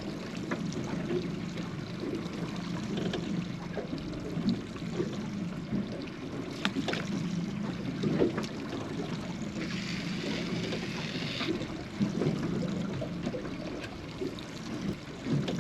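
Water lapping and splashing against the hull of a small fishing boat drifting at sea, with scattered light knocks. A brief higher hiss comes about ten seconds in.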